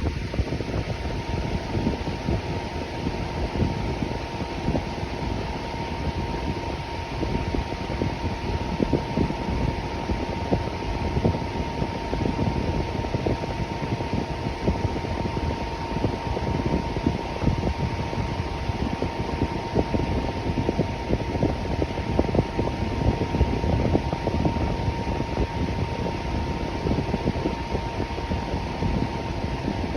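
Electric fan running steadily: an even rush of moving air with a thin, steady tone above it.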